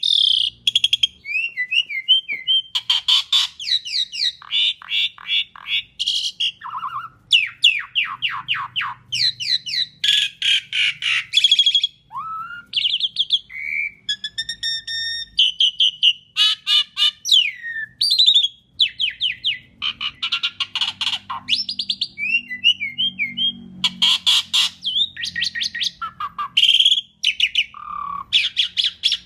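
A pied starling (jalak suren) in full song: a near-continuous, varied stream of rapid runs of repeated sharp notes, short whistled glides and harsh squawky trills, with only brief pauses between phrases.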